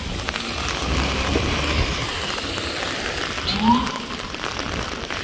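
Heavy rain falling steadily, a dense even hiss of drops. One brief rising pitched sound cuts through about three and a half seconds in.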